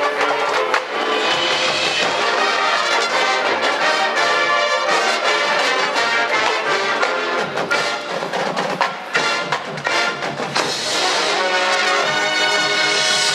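A high school marching band playing its competition field show: massed brass carrying sustained chords over drumline percussion.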